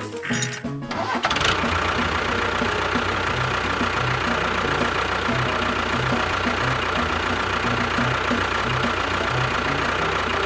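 Small motor of a homemade model tractor starts about a second in and runs steadily with a steady whine, over background music with a regular beat.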